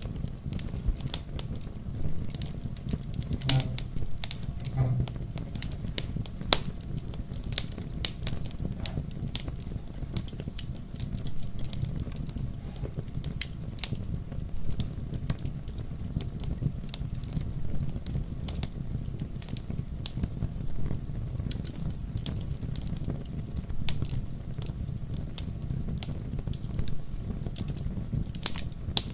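Wood fire crackling in a fireplace: frequent irregular snaps and pops over a steady low rumble of the flames.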